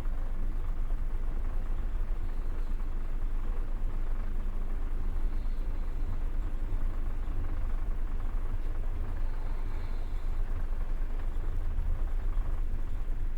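Passenger train running, heard from inside the carriage: a steady low rumble of the wheels on the track.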